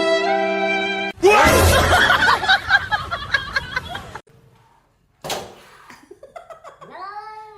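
Held string-music tones cut off about a second in by loud people's laughter, which stops abruptly about three seconds later. After a short quiet gap and a click, a cat begins a long, wavering yowl near the end.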